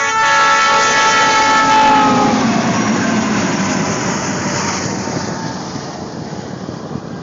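Train horn sounding a chord, its pitch dipping slightly as it cuts off about two seconds in, then the rushing noise of a passing train that slowly fades.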